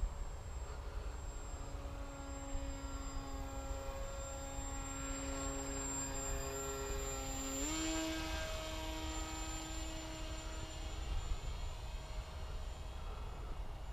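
RC Bixler plane's electric motor and propeller droning at a steady pitch. About two-thirds of the way through the pitch steps up quickly as the throttle opens, then the drone fades out, all over a low rumble.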